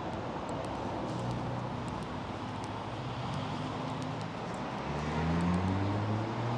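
BMW F80 M3's twin-turbo S55 straight-six, Stage 2 tuned, running at low revs, then getting louder and rising in pitch from about five seconds in as the car accelerates.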